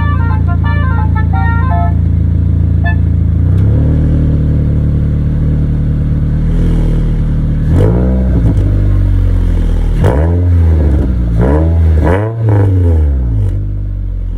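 Toyota Vellfire (20 series) idling while its reverse-gear melody chimes in short electronic notes for the first few seconds. From about the middle the engine is blipped again and again through the muffler, each rev rising and falling, five or six times.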